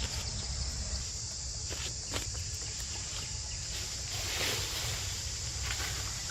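Insects droning steadily in a high, even band, with a few faint clicks and rustles.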